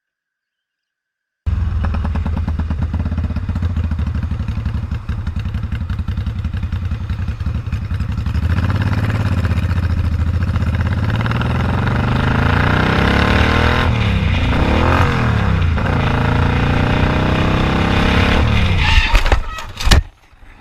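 Motorcycle engine running under way, starting abruptly about a second and a half in. Its pitch dips and climbs again a few times near the middle. Near the end come a few sharp knocks and clatter, then the engine sound drops away, as a crash would sound.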